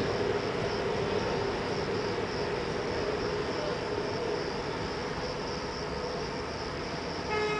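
Electric regional passenger train pulling away, its running rumble and hum slowly fading as it recedes. Crickets chirr steadily underneath, and a brief steady horn-like tone sounds near the end.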